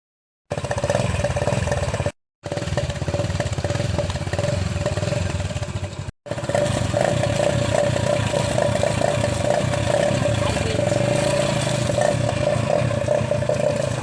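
Motorcycle engine running through a home-made modified exhaust meant to sound like a KTM Duke's, a steady rough exhaust note with a constant tone over it. It comes in three stretches split by two sudden cuts.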